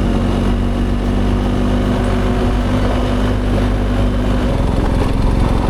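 Adventure motorcycle engine running at a steady speed while riding, its note changing about four and a half seconds in.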